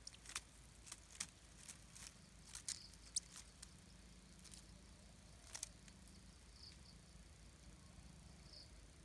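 Faint, sharp clicks and crackles of twigs in a shikra nest as the birds shift and tear at prey, about a dozen scattered through the first six seconds, over a low steady hum.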